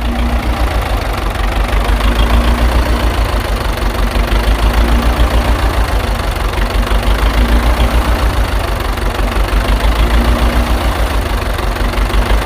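An engine idling with a steady, rhythmic chug of about five beats a second, the sound of a single-cylinder tractor engine at idle.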